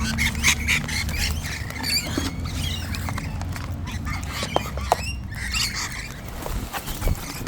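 A flock of wild cockatoos crowding in to feed, giving many short, scratchy, overlapping squawks and chatter, with scattered sharp clicks.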